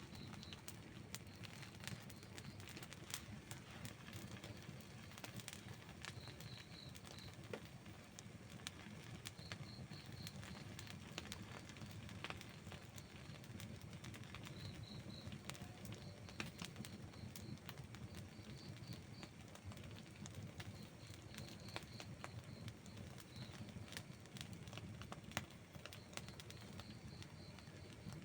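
Outdoor wood campfire burning, with frequent sharp crackles and pops over a steady low rush from the flames. Short runs of a few high chirps recur every few seconds behind the fire.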